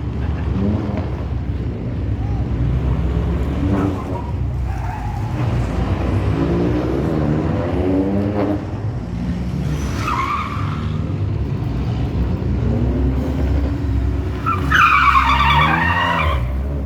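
Rally car engine revving hard and falling back repeatedly as the car is thrown sideways. Its tyres squeal briefly about ten seconds in, then louder and longer near the end as it slides.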